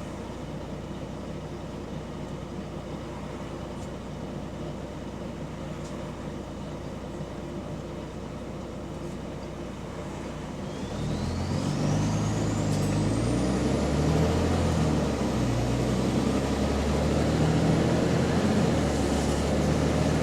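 Bus engine idling, then pulling away about halfway through: the engine gets louder and its note steps up through gear changes, with a whine rising in pitch as the bus picks up speed. The bus has an exhaust leak.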